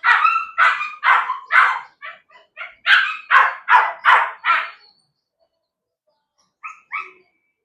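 A puppy barking in a quick run of high, sharp barks, about a dozen over the first five seconds, then two more near the end.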